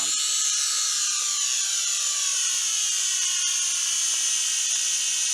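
The small motors and propellers of a Huajun Toys W606-5 toy quadcopter whine at a high pitch. The whine falls in pitch over the first two to three seconds as the motors slow, then holds steady.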